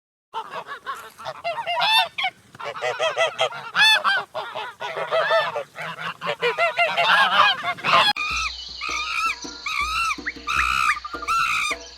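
A flock of farm birds calling: many short, overlapping honking calls. About eight seconds in it switches abruptly to a different recording of evenly repeated calls.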